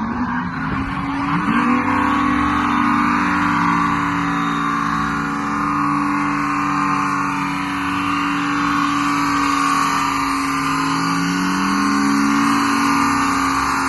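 Ford AU Falcon drift car's engine running hard at high, mostly steady revs.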